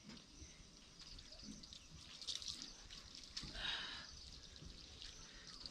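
Faint splashing and dripping of water as muddy rubber boots are washed, with a couple of slightly louder splashes near the middle.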